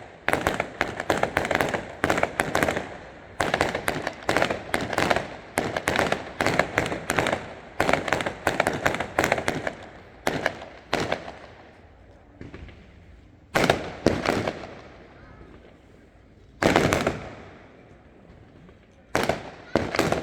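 Fireworks display: a rapid volley of shell bursts and bangs for about ten seconds, then single loud bursts a few seconds apart, each trailing off slowly.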